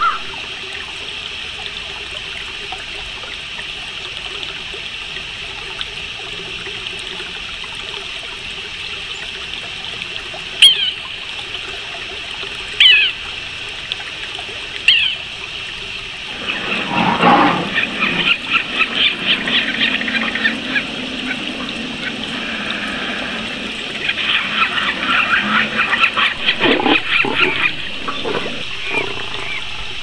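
Birds calling over a steady hiss: three short, high, downward-slurred calls about two seconds apart near the middle, then two stretches of rapid, high chattering notes. A low rushing noise swells and fades under the first stretch.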